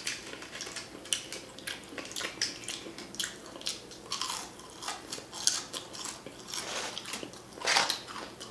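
Close-miked chewing of fried fast food, with a steady run of wet mouth clicks and lip smacks several times a second, and a louder smack near the end.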